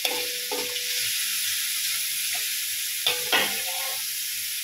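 Coarsely chopped chicken sizzling in hot oil in a wok as it is stir-fried, with a metal spatula scraping and clinking against the pan; the loudest scrapes come near the start and about three seconds in.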